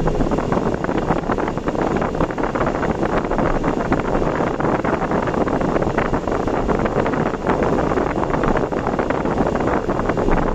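Steady rush of wind on the microphone mixed with the road noise of a vehicle travelling at expressway speed, without a break or change.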